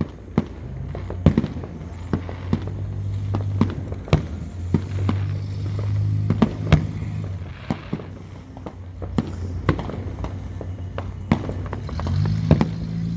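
Fireworks going off: a run of irregular sharp bangs and pops, some close together, over the whole stretch.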